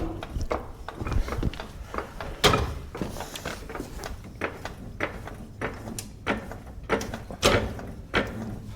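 Irregular metallic clanks and knocks from hand work on the truck's engine and engine bay, a dozen or so separate strikes, the loudest about two and a half seconds in and again near the end.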